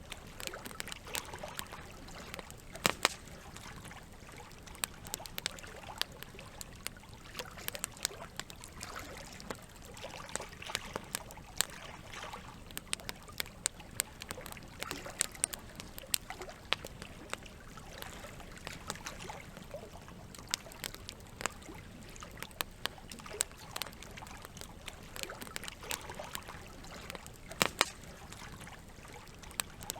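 Campfire crackling, with irregular sharp pops and snaps over a steady trickle of running water; two pops stand out, one about three seconds in and one near the end.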